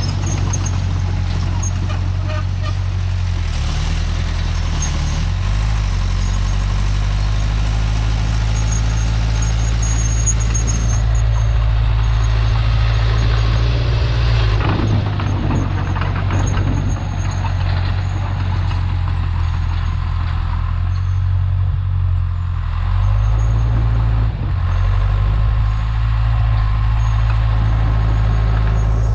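Tractor engine running steadily while working dirt, its pitch dropping and rising again a few times.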